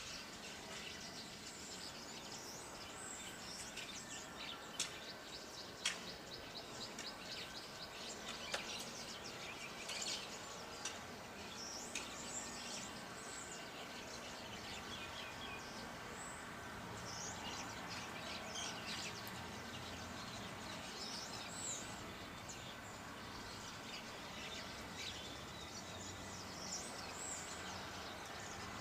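Small birds chirping and tweeting on and off over a steady outdoor background hiss, with a few sharp clicks about five, six and eight and a half seconds in.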